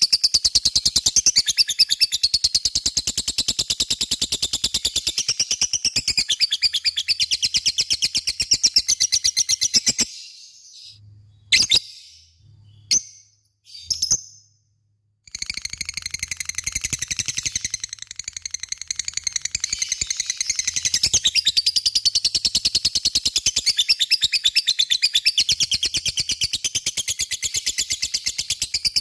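Lovebird giving its 'ngekek' song: a long, very fast chattering trill of high notes. About ten seconds in it breaks off for a few seconds, with only three short chirps, then the rapid trill starts again and runs on.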